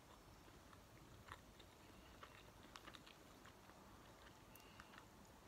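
Faint chewing of a fried Johnny cake, with a few soft, scattered mouth clicks.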